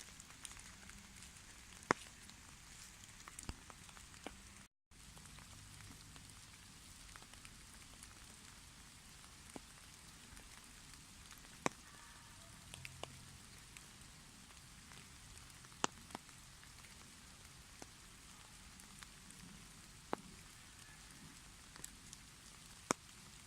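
Light autumn drizzle: a faint steady hiss of rain with scattered single drops ticking sharply every few seconds. The sound cuts out for an instant about five seconds in.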